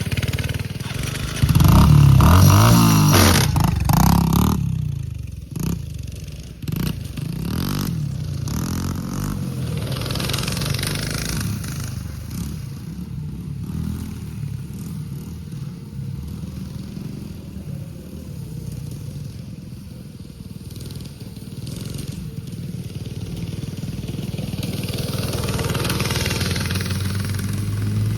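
Dirt bike engine revving hard close by with rising and falling pitch, then running more faintly as the bike rides off, and growing louder again near the end as it comes back.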